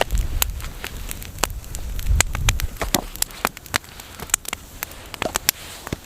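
Wood campfire crackling, with irregular sharp pops, and low gusts of wind buffeting the microphone near the start and about two seconds in.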